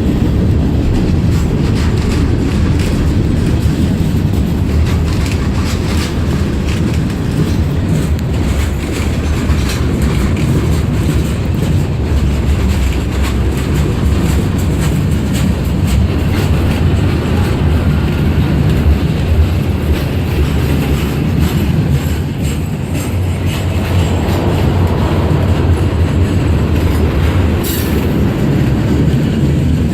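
CSX freight train rolling slowly past: a steady low rumble with wheels clicking over the rail joints, and a brief high squeal near the end.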